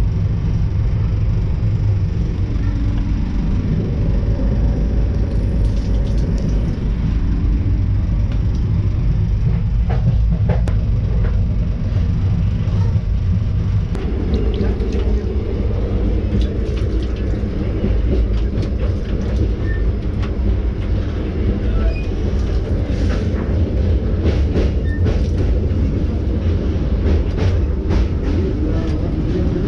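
Indian Railways express passenger train running, heard from inside the coach: a steady low rumble of wheels on the track, with scattered clicks and rattles through the second half.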